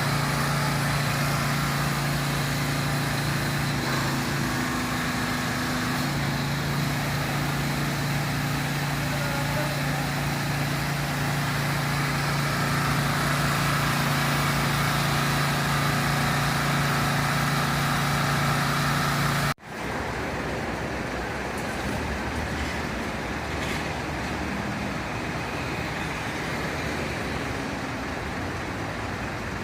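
A vehicle engine idling with a steady low hum, cut off abruptly about twenty seconds in and followed by quieter outdoor background noise.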